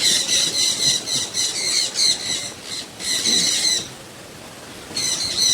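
A flock of small birds calling noisily: rapid, harsh, high-pitched chattering squawks for nearly four seconds, a short pause, then another burst near the end.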